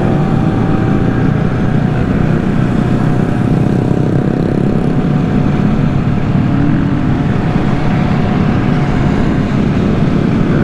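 Engines of a large pack of mini bikes and small motorcycles running together at low riding speed, a steady mixed drone.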